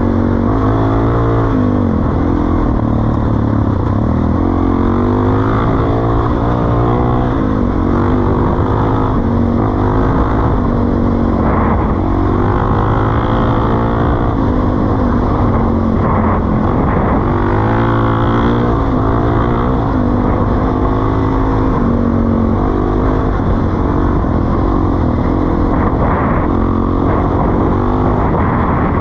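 Suzuki DR-Z400E's single-cylinder four-stroke engine through a Pro Circuit T-4 exhaust, running hard, its pitch rising and falling again and again with the throttle.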